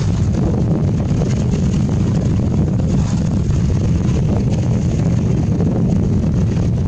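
Loud, steady wind buffeting the microphone as a low rumble, over the sound of a fishing boat at sea.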